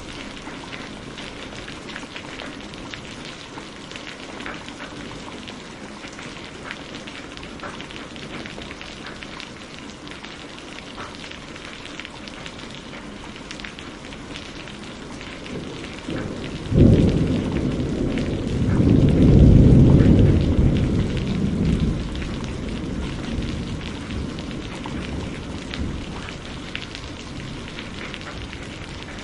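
Steady heavy rain with a thunderclap about halfway through: a sudden crack, then a deep rumble that swells and dies away over several seconds.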